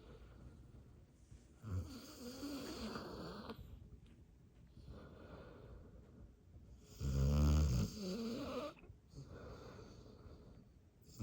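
A dog snoring in deep sleep: a softer snore about two seconds in, then a much louder, fluttering snore about seven seconds in.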